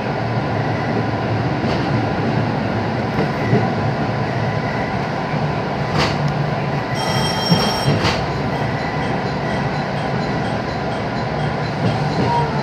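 221 series electric train running at reduced speed, heard from inside the car: a steady rumble of wheels and motors, with two sharp knocks about six and eight seconds in and a brief high-pitched squeal between them.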